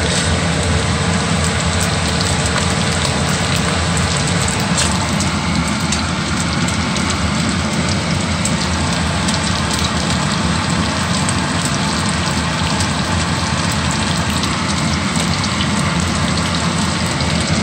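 Onion, garlic and pork belly sautéing in rendered pork fat in a pan: a steady sizzle with many small crackles.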